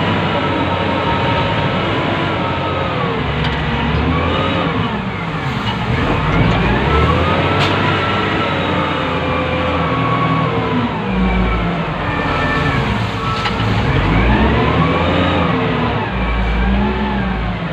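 Wheel loader's diesel engine heard from inside the operator's cab, revving up and dropping back again and again as the machine works, with a steady mechanical drone underneath.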